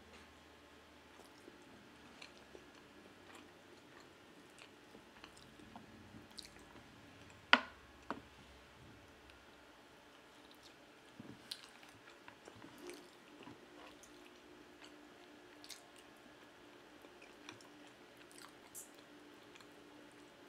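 Close-miked chewing of homemade pizza: soft wet mouth sounds and many small clicks, with one much louder sharp click about seven and a half seconds in.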